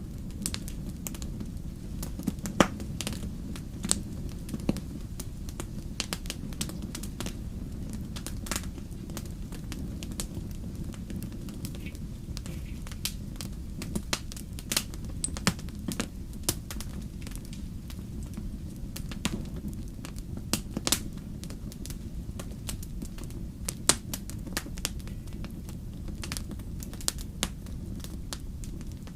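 Fire crackling: a steady low rumble with irregular sharp snaps and pops, a few of them much louder, one about two and a half seconds in.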